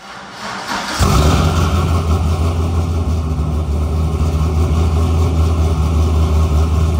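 A car engine starts, coming up to full level about a second in, then runs loudly and steadily at a rough idle.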